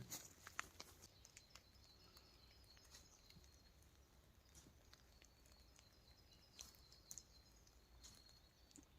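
Near silence: faint outdoor ambience with a few scattered soft clicks and taps.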